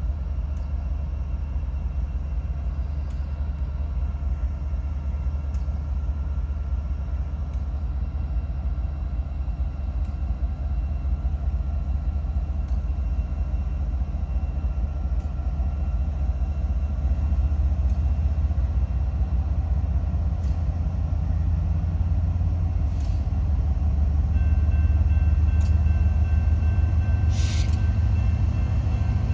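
BNSF freight train rolling past at close range: a steady low rumble with faint sharp clicks every two to three seconds, and a thin high squeal that grows louder near the end.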